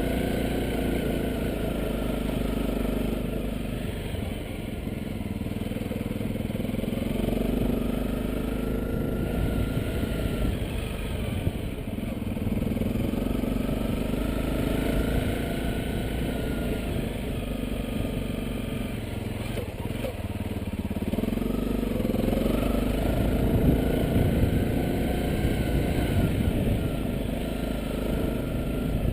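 Honda CRF250L's single-cylinder four-stroke engine being ridden off-road, its pitch rising and falling every few seconds as the throttle opens and closes, over a steady low rumble.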